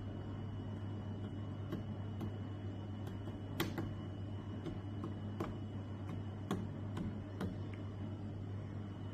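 Pro Breeze 20-litre compressor dehumidifier running with a steady low hum and a faint high whine, while about ten light clicks fall at irregular intervals.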